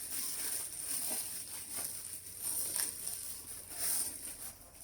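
Faint rustling and light handling sounds of packaging being opened: soft scattered crinkles and taps.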